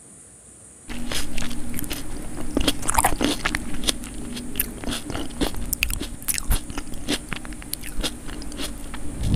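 Close-miked chewing and crunching of food, with many sharp wet mouth clicks, starting about a second in.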